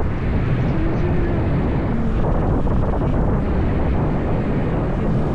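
Steady rush of wind on the microphone of a moving motorbike, with the bike's engine running underneath.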